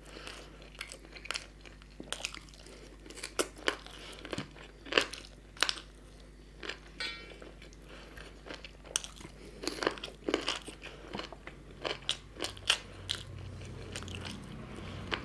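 Close-miked chewing and biting of chicken curry and puri, with irregular sharp crunches and clicks. A low hum comes in near the end.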